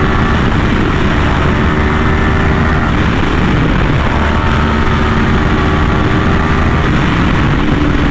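Yamaha R1M's crossplane inline-four running through an SC Project exhaust while riding. The engine note sinks slowly in pitch twice over a steady rushing noise.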